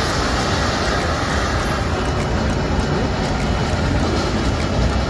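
Nilgiri Mountain Railway toy train running, a steady rumble and rattle of its wheels and coaches heard from an open carriage window.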